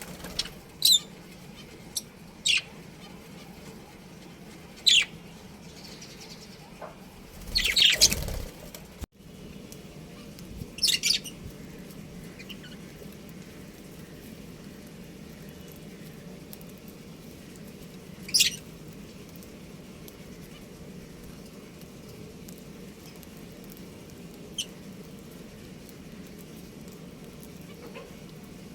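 Budgerigars giving short, sharp chirps every few seconds. There is a louder, longer flurry about eight seconds in, and a steady low hum underneath.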